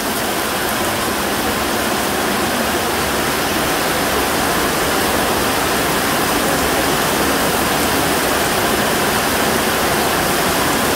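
Heavy tropical rain pouring down steadily, a dense, even hiss with no let-up.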